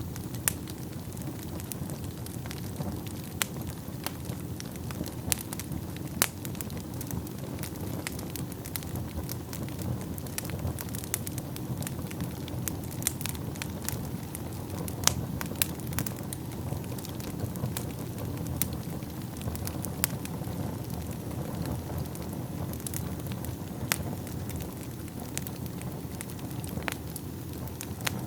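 Wood fire burning in a fireplace: a steady low rushing of flames with frequent sharp crackles and snaps, and a few louder pops every few seconds.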